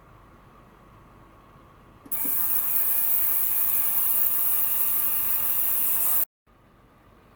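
Ultrasonic cleaner running: a loud, high hiss from the water-filled tank that switches on about two seconds in and cuts off suddenly about six seconds in.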